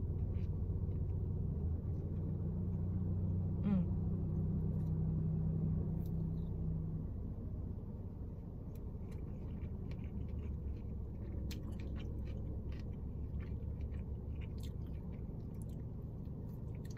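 A person chewing and eating, with small wet mouth clicks, over a steady low engine rumble. A stronger engine hum, which fits a truck passing, comes and goes between about two and seven seconds in.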